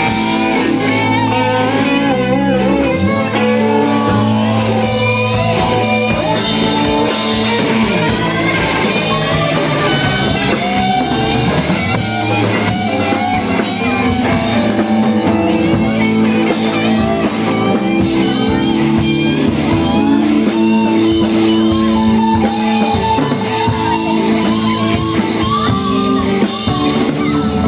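Live rock-blues music: electric guitar lead over a drum kit and bass.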